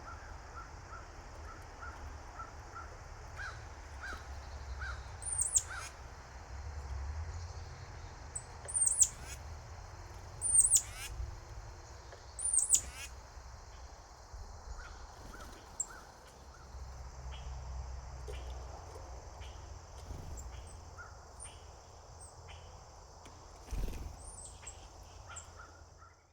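Wild birds calling: a run of short, evenly repeated notes, about three a second, then four loud, sharp, very high calls a couple of seconds apart, with scattered short notes later on.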